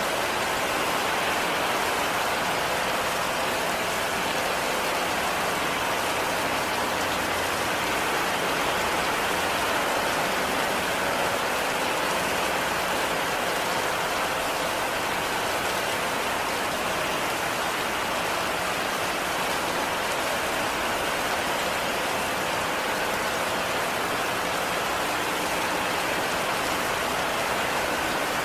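Heavy rain falling steadily, an even hiss of rain with no separate drops or thunder standing out.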